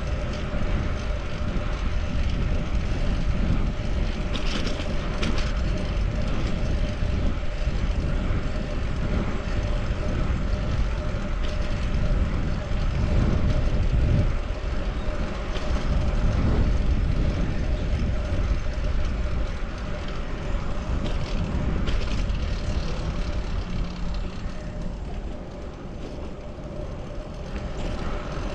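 Steady wind rush on the microphone and road noise from a fixed-gear bicycle being ridden, with a low rumble throughout and a faint steady hum.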